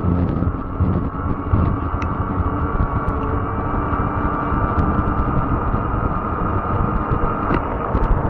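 Fat-tire electric bike riding: a steady motor whine over a low rumble of tyres on rough ground, with a few light ticks.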